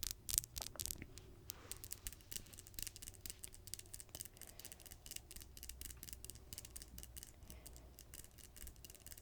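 Long fingernails tapping and clicking in a fast, uneven run of small clicks, close to the microphone.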